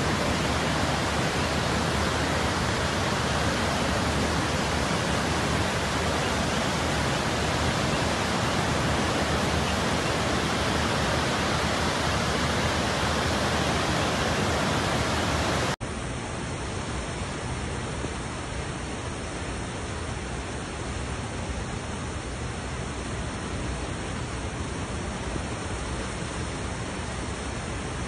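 Hurricane wind blowing as a steady, dense rushing noise. About sixteen seconds in it cuts abruptly to another, slightly quieter stretch of the same kind of noise.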